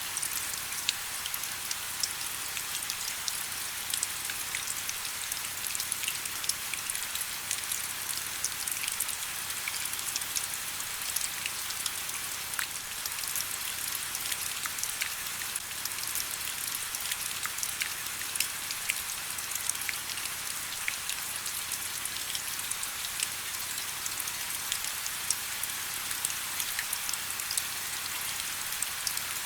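Steady rain: an even hiss with many individual drops ticking sharply on a surface.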